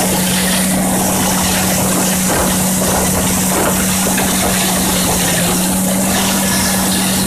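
Vehicle engine running steadily at constant speed while travelling along a river: a steady drone holding one pitch under a dense rushing noise.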